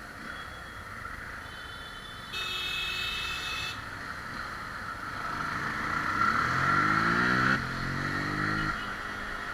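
Bajaj Pulsar RS 200's single-cylinder engine being ridden, its pitch rising as it revs up through a gear about halfway through and cutting off sharply near the end of the climb. A brief high-pitched tone sounds about two and a half seconds in.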